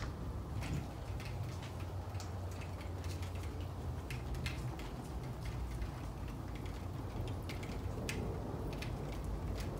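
Thunderstorm ambience: a steady low rumble with scattered light ticks.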